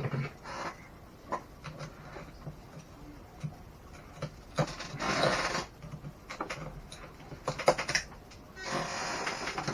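Clicks, knocks and clatter of tools and small plastic and metal parts being handled while a Traxxas X-Maxx RC truck is taken apart. Two denser rattling stretches of about a second each come near the middle and near the end.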